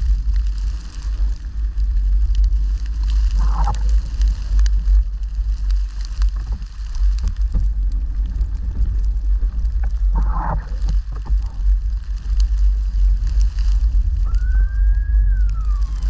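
Ambulance siren going by. It gives short blips twice, then one wail that rises and falls near the end, over a steady low rumble.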